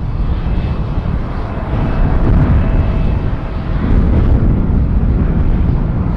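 Jet airliner's engines rumbling as it flies low on its landing approach, with a faint steady whine over the deep roar.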